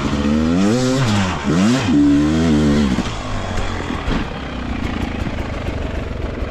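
Beta 300 RR two-stroke enduro bike engine revving hard. Its pitch climbs, drops and climbs again over the first three seconds, then it runs on at a lower, steadier note.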